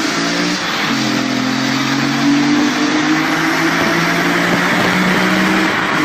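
Ferrari or Lamborghini supercar engine accelerating hard in a tunnel, the sound echoing off the walls. The engine note breaks and drops briefly under a second in, then climbs slowly and steadily.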